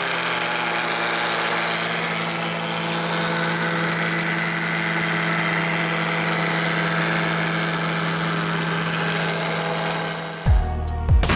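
Reedy VR-ST .21 two-stroke nitro RC engine running at a steady speed on a dyno, one even unchanging note. About ten seconds in it cuts off abruptly and thumping beats take over.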